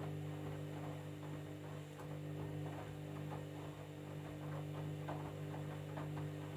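Candy washing machine running a jeans cycle: a steady mechanical hum with faint, irregular light knocks and clicks that become more frequent in the second half.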